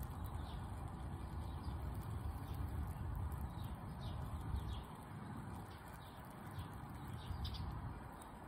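Small birds chirping again and again in short, high notes over a low rumble that drops away about five seconds in.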